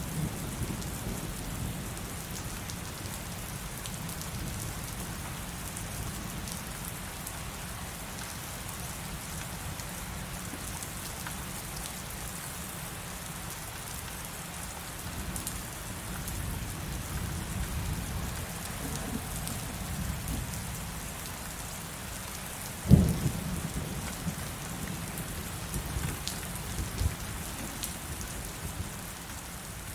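Heavy rain falling steadily with low rumbling thunder underneath. About three-quarters of the way through, a sharp loud thunderclap cracks and rolls off into rumbling, followed by a few smaller cracks.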